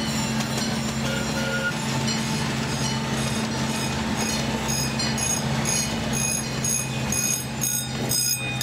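Miniature zoo train running along its track: a steady engine drone, with a bell ringing over it at an even beat of about two or three strikes a second, louder in the second half.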